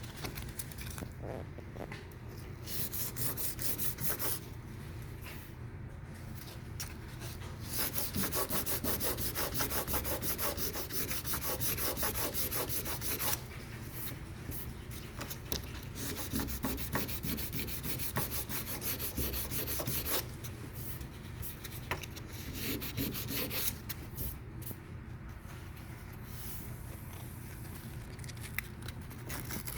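Sandpaper on a sanding block rubbing over cured high-build epoxy primer in quick back-and-forth strokes, coming in spells with short pauses, as the orange-peel texture is knocked down.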